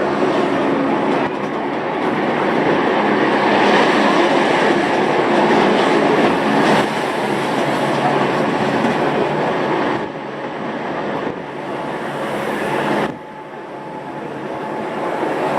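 Gornergrat electric cogwheel train running on its rack railway: a steady rumble and clatter of wheels and rack gear. The noise drops suddenly about thirteen seconds in, then builds back up.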